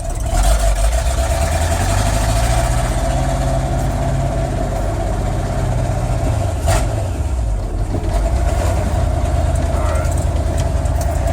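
Pickup truck's engine running cold, idling steadily but not as it normally does until it warms up. A single sharp click comes a little past the middle.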